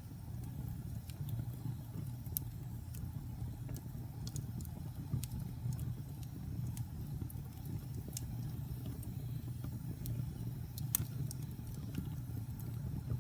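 Wood fire crackling in a fireplace: scattered sharp pops and snaps at irregular intervals, one louder pop near the end, over a steady low rumble.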